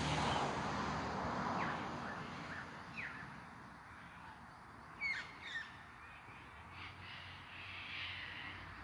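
Outdoor bird calls: a few short falling chirps, then two louder harsh calls about five seconds in.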